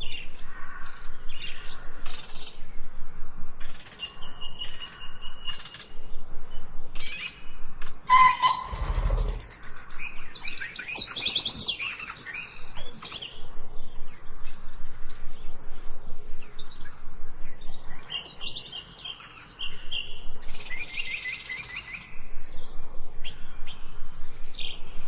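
Several songbirds chirping and singing, with short notes and trills repeated in quick succession and overlapping one another. A brief low sound comes about eight to nine seconds in.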